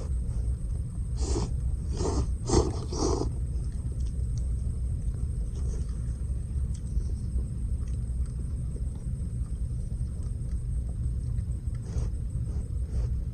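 Wood campfire crackling, scattered small clicks and pops over a steady low rumble. A cluster of four louder, hissy bursts comes about one to three seconds in.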